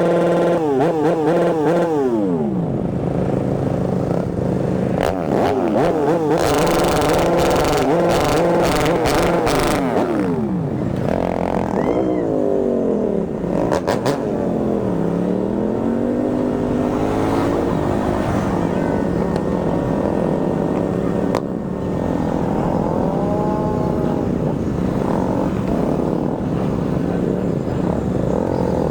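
A large group of motorcycles riding together, several engines at once revving up and easing off, their pitches rising and falling over one another.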